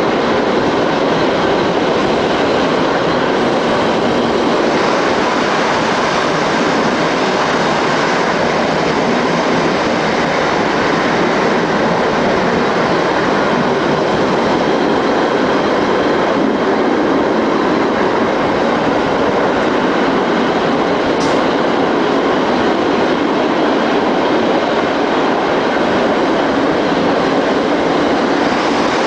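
ALn 668 diesel railcar running steadily at speed, heard from on board: a continuous, even rumble and rush of the wheels on the rails and the running gear.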